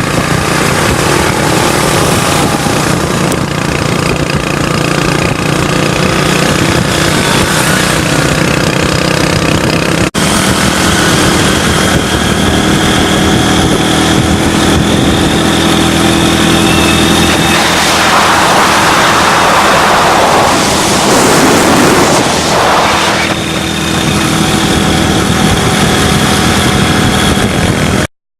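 Motorcycle engines running steadily while riding, with a louder rushing noise swelling and fading about two-thirds of the way through. The sound breaks off briefly at about ten seconds and stops abruptly at the end.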